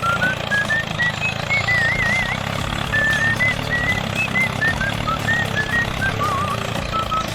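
Small electric motor of a DIY mini tractor running steadily with a low hum. A string of short, high, wavering whistle-like notes sounds over it.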